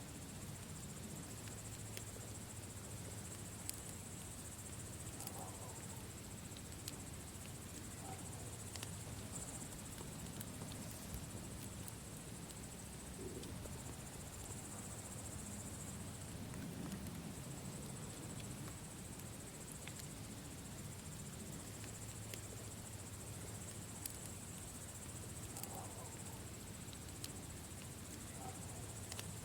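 Campfire burning with a low steady rumble and sparse sharp crackles and pops, over a continuous high trill of insects.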